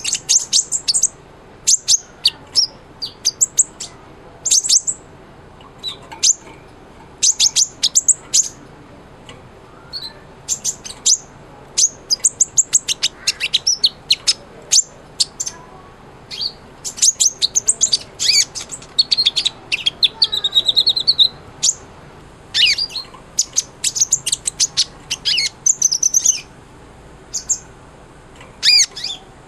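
Kolibri ninja sunbird singing in full song: rapid phrases of high, thin chirps and trills broken by short pauses, with a buzzy trill about two-thirds of the way through.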